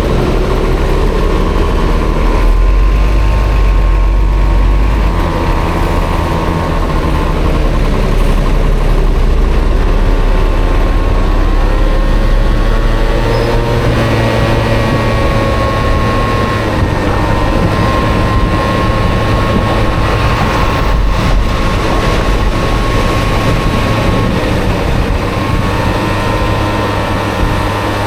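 Honda Dio 50 cc two-stroke scooter engine running on the move through city traffic, its pitch rising and falling with the throttle over a heavy low rumble.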